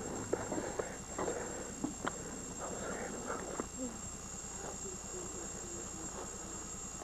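A steady high-pitched whine runs throughout, with faint voices and a few light knocks in the first half.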